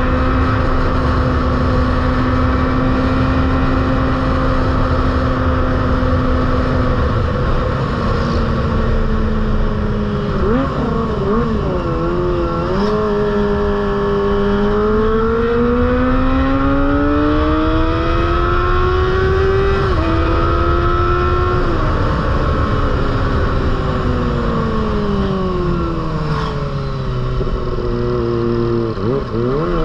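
Kawasaki ZX-25R's 250 cc inline-four engine with a Proliner aftermarket exhaust, running at high revs. The note holds steady, wavers with a few quick throttle changes about ten seconds in, rises slowly, then falls away, and dips sharply before climbing again near the end.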